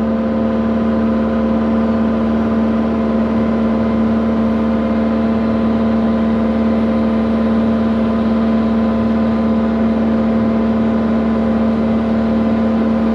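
Diesel engine of a digging machine, an excavator or skid steer, running at a steady high speed with an even, unchanging drone.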